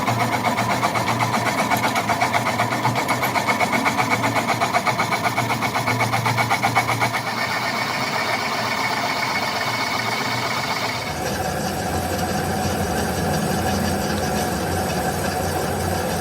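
Machine-shop machinery running, with a fast, even pulsing for the first several seconds that then settles into a steadier sound, changing in character about eleven seconds in.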